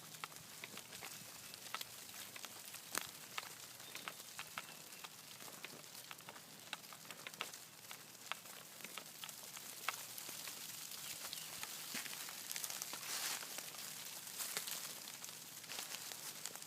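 Hundreds of tiny insects, each about the size of a grain of rice, pattering on dry leaves: faint scattered ticks and a soft hiss that sound like light rain. The pattering grows a little denser and louder in the second half.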